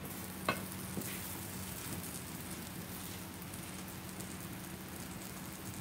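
Egg mixture frying in a pan, a steady sizzle with fine crackles, over a steady low hum. A single sharp knock about half a second in.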